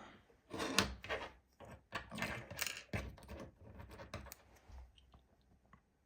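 Lego minifigures and plastic pieces being handled: a run of small clicks, taps and rattly scrapes that thins out after about four and a half seconds.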